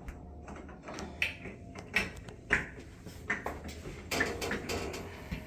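Hand tools and small hardware being handled: a few sharp clicks and knocks, then a longer rattling, scraping stretch about four seconds in.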